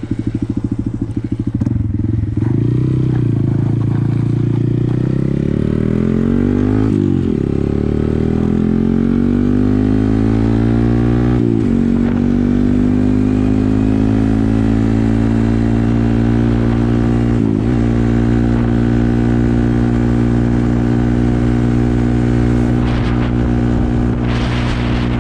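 Honda Grom 125's single-cylinder four-stroke engine, breathing through an aftermarket AODONLY titanium dual exhaust with the baffles in, heard from the bike as it accelerates. The pitch climbs and drops sharply three times as it shifts up through the gears, then holds steady at cruising speed.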